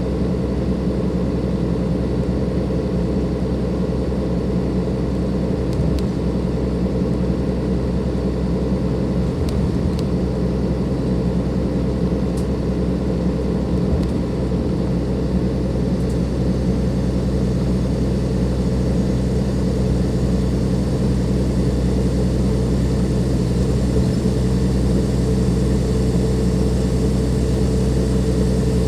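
The Cummins ISLe diesel engine of a Dennis Enviro 500 double-decker bus running steadily, with a few faint clicks about 6 and 10 seconds in.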